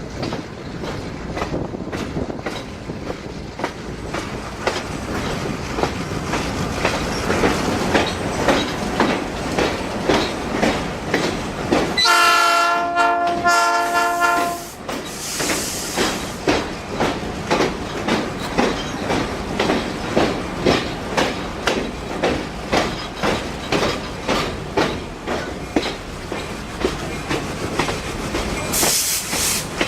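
Passenger train wheels clicking rhythmically over rail joints, the clicks coming faster as the train picks up speed. About twelve seconds in, the locomotive horn sounds in a short series of blasts.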